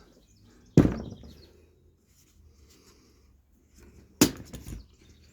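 Workshop handling knocks on a workbench: one sharp knock about a second in, then a quick clatter of several knocks near the end.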